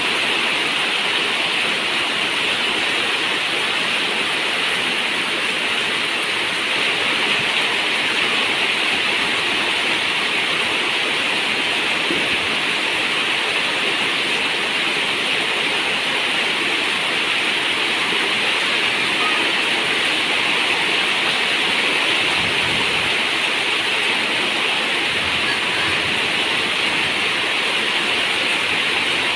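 Steady heavy rain on a zinc roof, an even, unbroken rush of water with no single drops standing out.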